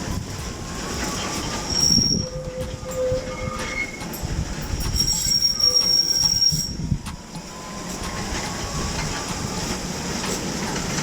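Old electric tram running on its rails with a steady rumble, its steel wheels squealing in thin, high tones about two seconds in and again from about five to seven seconds in.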